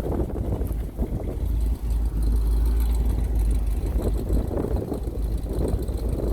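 Wind buffeting the microphone, with an irregular rustling over it.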